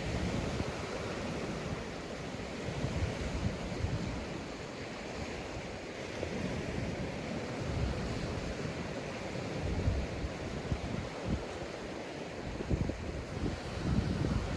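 Sea waves breaking and washing up a sandy beach in a continuous surf wash. Wind buffets the microphone in gusty low rumbles.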